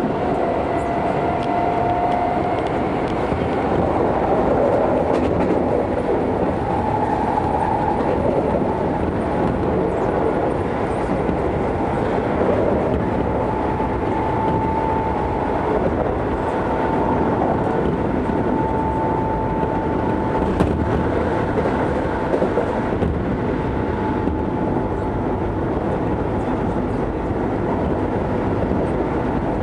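Keisei 3400 series electric train running at speed, heard from inside the passenger car: a steady rumble of wheels on rail with a whine over it that steps up in pitch after several seconds. One sharp click about two-thirds of the way through.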